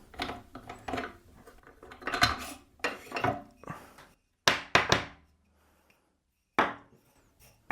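Metal drill bits clinking and knocking against a wooden block as they are handled and set into its drilled holes: a quick string of light clicks and knocks, a pause of about a second and a half, then a couple more single knocks.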